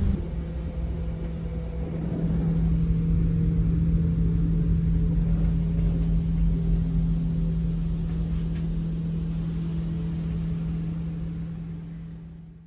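Inside a Caledonian Sleeper train coach: low rumble of the carriage with a steady low hum. It fades out at the end.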